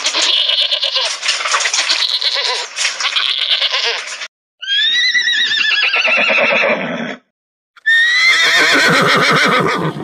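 A sheep gives one long, rough bleat lasting about four seconds. Then horses whinny twice, each a high, quavering neigh that falls in pitch.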